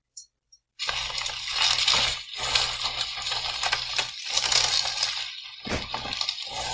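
Plastic bubble wrap crinkling and crackling as a small dog wriggles through a tube of it, starting about a second in.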